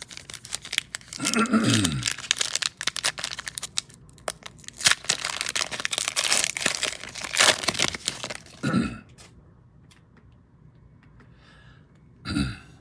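Plastic trading-card pack wrappers being torn open and crinkled, a dense rustling crackle that eases off after about eight seconds, with a few short vocal sounds in between.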